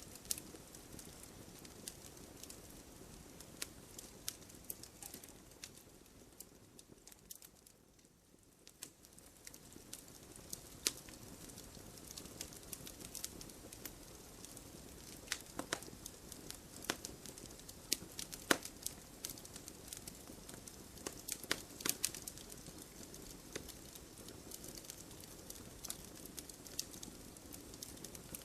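Wood fire crackling in a fireplace: scattered sharp pops and snaps over a soft steady hiss, which dips briefly about eight seconds in.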